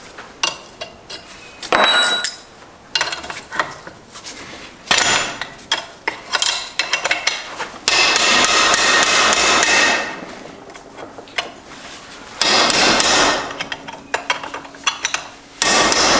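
Hammering on the cast aluminium case of a Subaru 6-speed transmission: scattered sharp blows at first, then runs of rapid, closely spaced strikes lasting a couple of seconds each.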